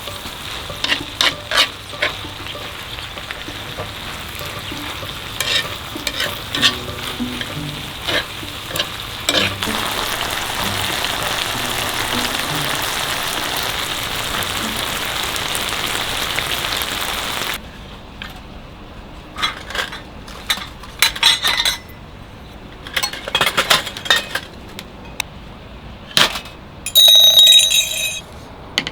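Food sizzling and frying in a pan while being stirred, with utensils clicking against it; the sizzle grows louder partway through, then stops suddenly, leaving scattered clinks and knocks and a brief ringing clink near the end.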